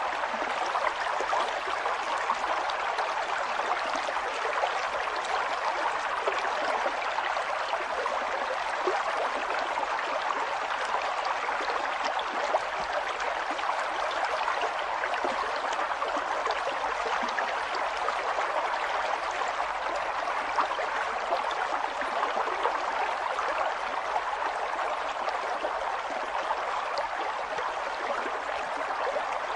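A river flowing over stones: steady rushing and babbling water with many small splashes and gurgles.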